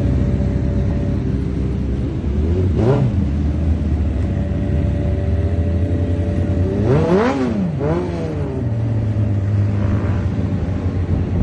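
Motorcycle engine running with quick revs, its pitch shooting up and dropping back about three seconds in and twice more around the middle, over a steady engine drone.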